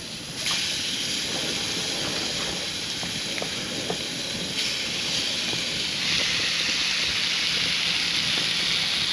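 Seasoned mojarra fillets frying in olive oil in a frying pan on a portable butane stove: a steady sizzle with small scattered pops, getting louder about halfway through.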